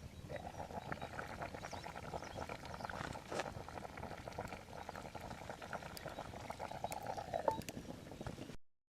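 A pot of beans bubbling and simmering over a campfire: a dense, steady stream of small bubbling pops. It cuts off suddenly near the end.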